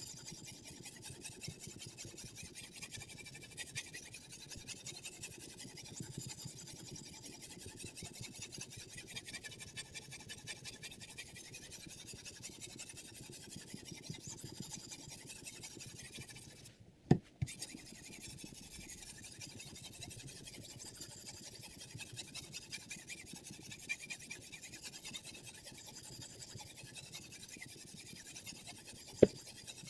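Abrasive sharpening stone on a guided knife sharpener rubbed back and forth along the edge of a chef knife in steady, even strokes, a dry scraping rasp. A sharp knock about halfway through and another near the end.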